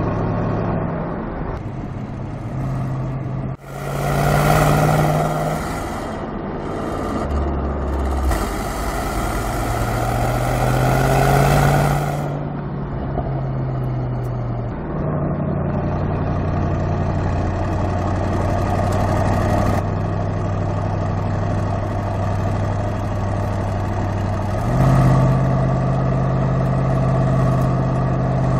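Car engine running at several steady speeds that change in steps, with two louder surges of noise a few seconds in and again around the middle.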